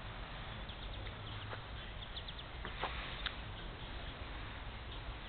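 Quiet outdoor ambience with a steady low background hiss, and a few short, high bird chirps, most of them around the middle.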